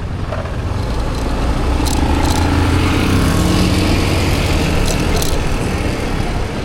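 Motorbike engine running under way with wind and road noise, its note rising and swelling in the middle as it speeds up. A few sharp clicks, twice in pairs, from the helmet bumping the camera.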